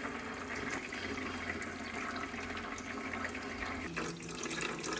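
Small 5V pump of an automatic cage bird bath circulating water, which falls in a steady shower-like trickle into the plastic tub.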